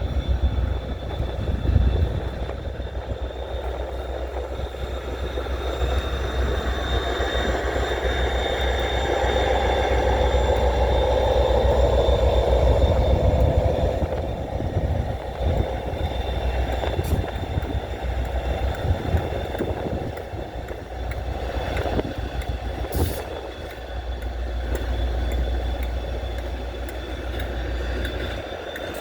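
Two GBRf Class 57 diesel locomotives coupled together and running light engine past a level crossing. Their engines and wheels build to a loud, steady rumble about halfway through, then fade as they go away. A steady high tone carries on alongside, and a few sharp knocks come near the end.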